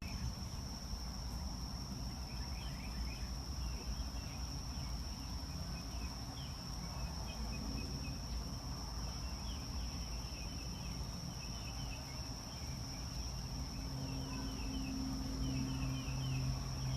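Outdoor ambience: a steady high-pitched insect drone, with faint scattered chirps and a low hum underneath.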